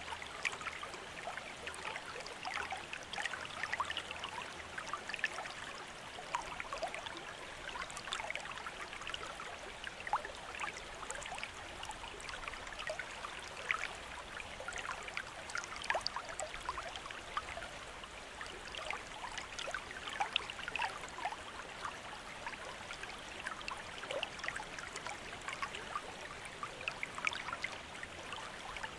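Water from a bamboo fountain trickling and splashing steadily into its basin, with many small irregular drips and plinks over a continuous flow.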